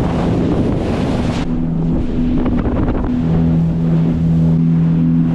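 Motorboat engine running steadily under way, a low hum, with a loud rushing noise over the microphone that drops away about a second and a half in.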